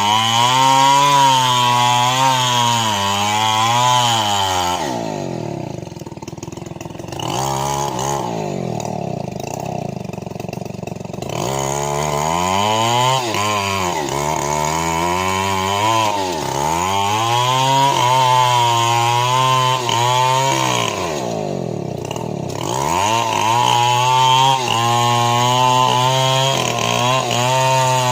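The small petrol engine of a saw running and being revved up and down. Several times the revs fall away to a low idle, then pick back up.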